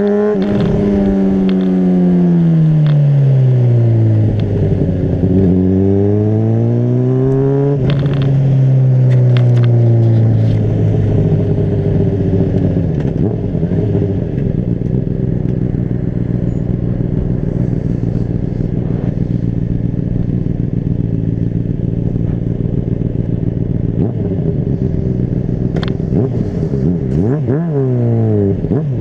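Honda CBR600RR's inline-four engine running under way. Its revs fall and rise twice over the first ten seconds or so, with a knock at about eight seconds. It then holds a steady note, and the revs swing up and down quickly a few times near the end.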